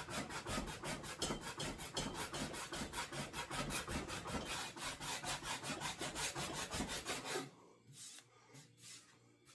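A rasp worked back and forth over a wooden axe handle, faceting the grip into an octagon: quick, even strokes about four or five a second that stop about two seconds before the end, followed by a couple of faint last strokes.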